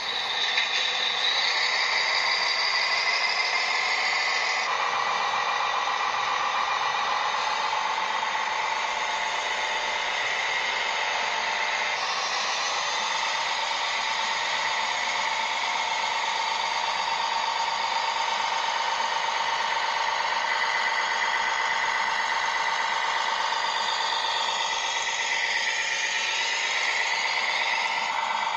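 Small electric motors and gearboxes of RC construction models running with a steady high whine. The pitch shifts abruptly about five seconds in and again about twelve seconds in.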